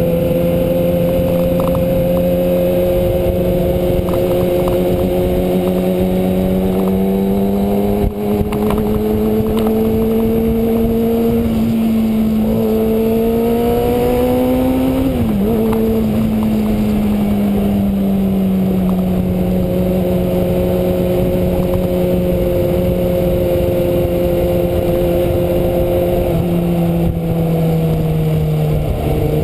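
2009 Kawasaki Ninja ZX-6R's inline-four engine running while riding, its pitch rising slowly, a quick blip about halfway through, then easing down and dropping in a step near the end. Wind rushes over the microphone.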